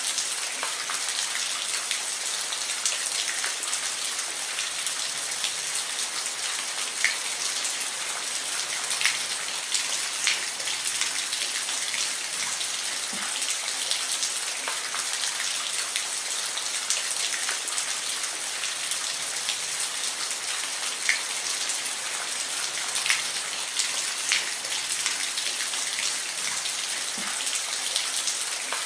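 Steady rain falling, a dense even hiss with close, scattered drops striking a surface.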